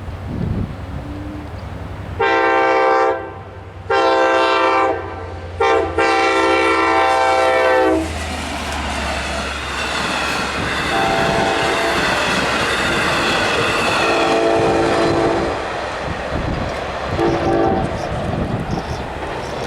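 Long Island Rail Road train horn sounding the grade-crossing signal: two long blasts, a short one and a final long one. The train then passes with a steady rumble and rail clatter while the horn gives a few shorter, fainter blasts.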